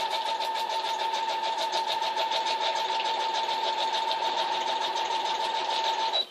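Electric sewing machine running at a steady speed, with its motor whine and a fast, even run of needle strokes, as it stitches along the sides of a dog food bag. It stops abruptly near the end.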